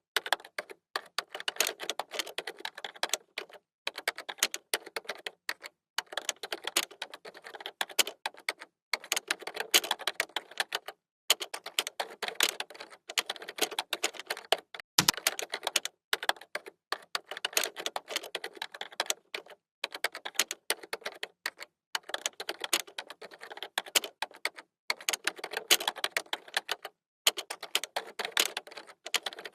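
Computer keyboard being typed on fast, with keys clicking in quick runs broken by short pauses. One heavier keystroke lands about halfway through.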